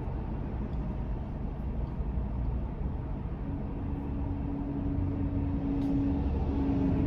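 Road and engine noise of a truck driving, heard from inside the cab as a steady low rumble. A steady tone comes in about halfway through and holds.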